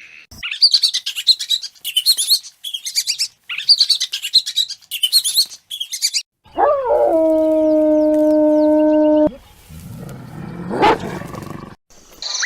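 Small birds chirping in quick, high bursts for about six seconds. Then a steady, pitched call held for about three seconds that cuts off suddenly, followed by a low rumbling noise with one louder burst near the end.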